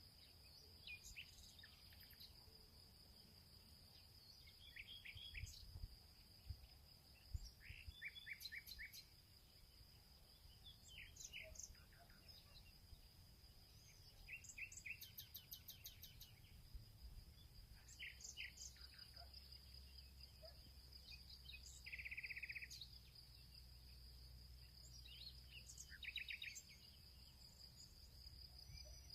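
Faint field ambience: small birds chirping in short runs of quick notes, with a fast trill about 22 seconds in, over a steady high-pitched insect drone and a low rumble.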